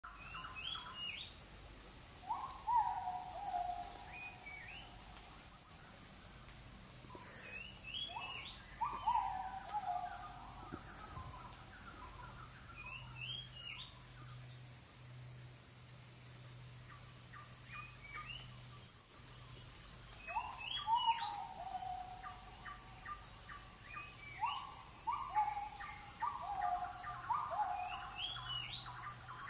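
Oriental magpie-robin (kacer) singing in bursts a few seconds apart: short high rising notes followed by drawn-out falling whistles, with quick clicking notes in the later bursts. A steady high-pitched insect drone runs underneath.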